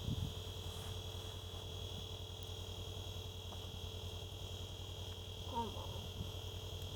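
A steady high-pitched whine over a low hum that pulses rapidly, like a small motor or electronics running. A brief squeak rises and falls about five and a half seconds in.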